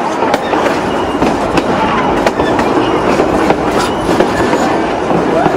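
Durango & Silverton narrow-gauge train under way, a steady rolling rumble with irregular clicks of the wheels over the rail joints.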